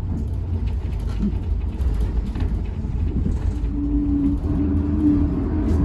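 Tokyu city bus H854 running, heard from inside the cabin: a steady low rumble, joined about two-thirds of the way through by a steady mid-pitched whine from the bus's motor. This whine is the abnormal motor noise the bus is known for.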